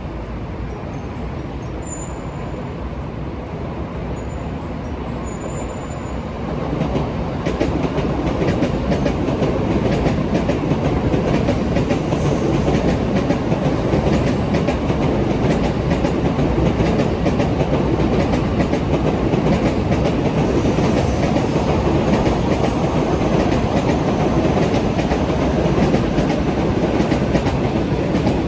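JR Kyushu train passing close by, its steady rumble swelling about seven seconds in and then running loud with the rapid clatter of wheels over rail joints. A couple of brief high squeaks come near the start.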